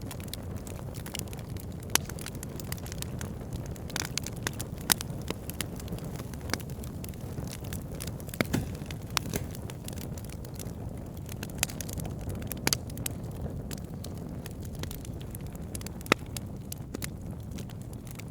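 Wood fire burning: a steady low rumble of flames with frequent sharp crackles and pops from the burning logs, coming at irregular intervals.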